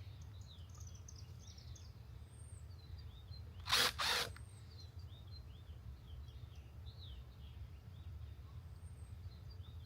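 Outdoor ambience: many small birds chirping over a steady low rumble. About four seconds in come two brief, loud bursts of noise in quick succession.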